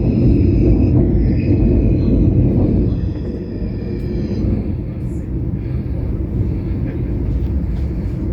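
Passenger train running, heard from inside the carriage: a steady low rumble of wheels and running gear, with high steady tones over it that fade out about four seconds in as the rumble eases a little.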